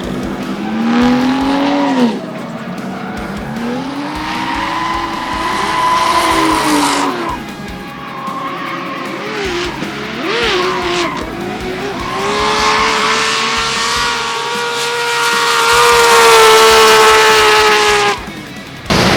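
Nissan Skyline R32 drift car's billet RB28 straight-six revving hard with tyres squealing through a drift; the engine note climbs and falls with throttle and gear changes, holds high through a long slide, then cuts off sharply for a moment near the end.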